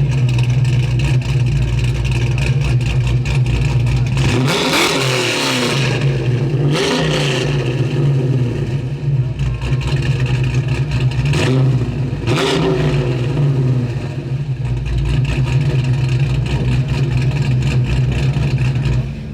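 A car engine idling steadily, revved quickly four times, each rev rising in pitch and falling back to idle.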